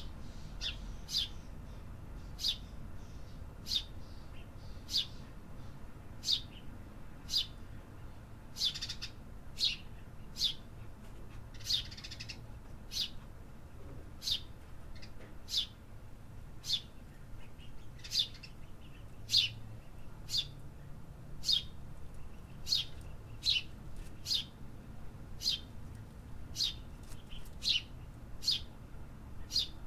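A single bird giving short, high chirps that slide downward in pitch, repeated about once a second, with a faint low rumble underneath.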